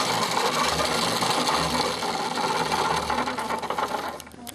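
A small machine running with a steady whirring, rattling noise that stops about four seconds in.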